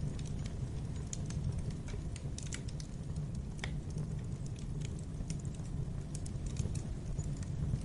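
Fire burning in a fireplace: a steady low rumble of flames with irregular small crackles and pops.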